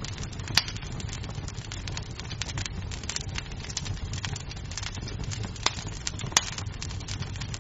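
Wood fire crackling in a fireplace: a steady low rumble of flames with constant small crackles. Three sharper pops of burning wood stand out, one about half a second in and two near the end.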